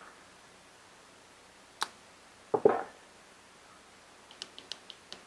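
Small parts of a disassembled two-stroke carburetor being handled and worked on a bench. A single sharp click comes first, then a short, louder clatter, and near the end a run of light quick clicks, about four or five a second.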